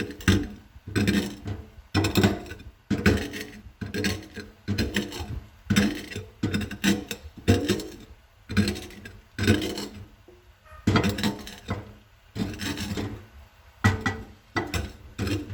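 Egg-and-vegetable bird-food mixture being crushed and ground in a bowl with the bottom of a glass: repeated rasping, grinding strokes, about two a second.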